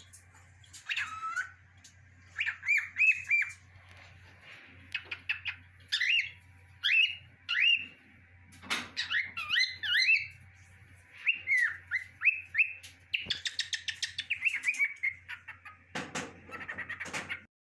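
Cockatiel singing: phrases of short whistled notes, many of them quick up-and-down glides, in groups of three or four with short pauses between, and a fast buzzy chatter near the end.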